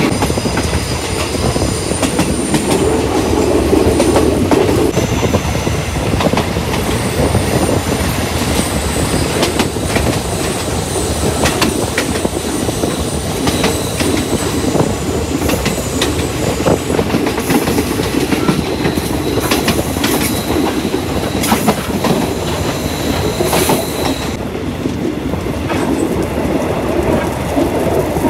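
Passenger train running along the line, its wheels clacking over rail joints, with a high-pitched squeal of steel wheels on the rails coming and going and dying away near the end.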